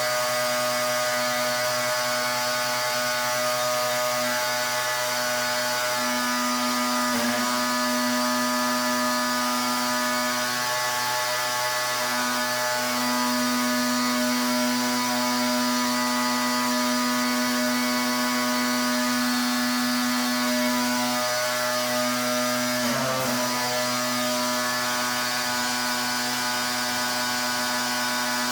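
Pressure washer running steadily: a constant motor hum with the hiss of the water jet, its pitch dipping briefly twice, about a quarter of the way in and again near the end.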